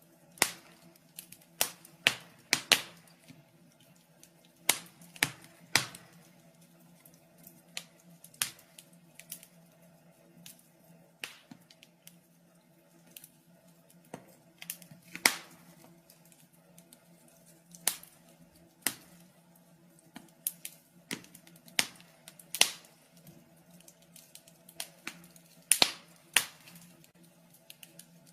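Wood fire crackling in a fireplace: irregular sharp pops and snaps, some loud, sometimes in quick clusters, over a faint steady low hum.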